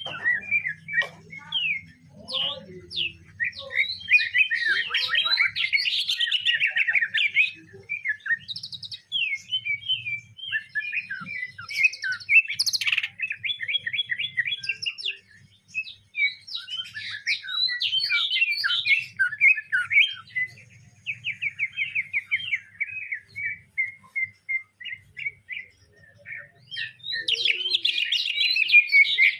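Green leafbird (cucak ijo) singing a long, fast run of chirps and trills, its song filled with mimicked Eurasian tree sparrow chirps, with short lulls about halfway and shortly before the end.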